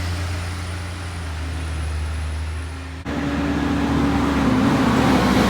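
Peterbilt garbage truck's diesel engine idling steadily, then, after an abrupt break about three seconds in, running louder and rougher with its pitch climbing a little, as under load.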